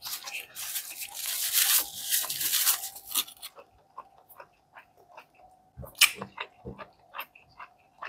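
A person chewing a mouthful of bacon burger close to the microphone: a loud crackling, crunchy noise for the first three seconds or so, then quieter scattered mouth clicks and smacks.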